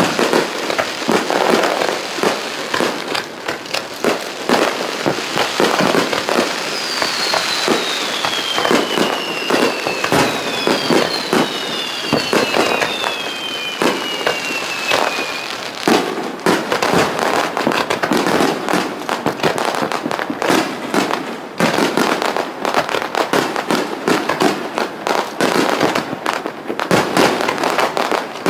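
Fireworks display: a dense, unbroken barrage of shell bursts and crackle, with several whistling tones falling in pitch a quarter to half way through.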